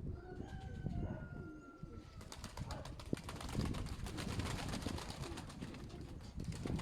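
Pigeons outdoors with wind rumbling on the microphone: a thin, slightly falling high note drawn out for about two seconds near the start, then a dense run of fast clicks.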